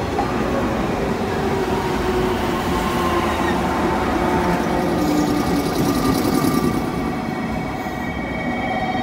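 JR Kyushu 415 series 100-subseries electric local train running in beside the platform and slowing to stop, its wheels rumbling over the rails, with a low hum that slowly falls in pitch.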